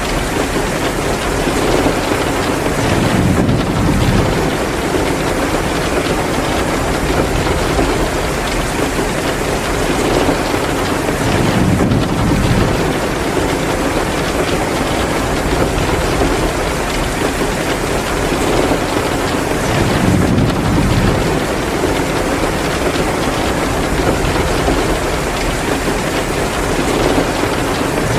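Heavy rain pouring steadily, with a low rumble that swells and fades roughly every eight seconds.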